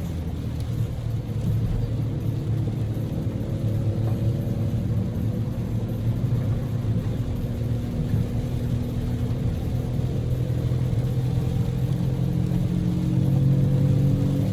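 Inside the cabin of a Daihatsu Move L150S kei car on the move, its 660 cc three-cylinder EF-VE engine running steadily over road noise. The engine note dips slightly through the middle, then climbs and gets louder near the end as the car accelerates.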